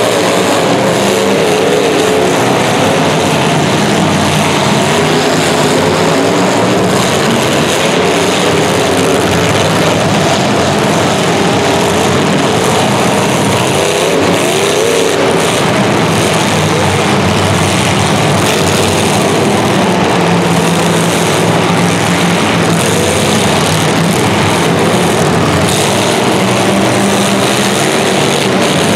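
Several racing engines running hard at once, their pitches rising and falling as they rev through a race heat.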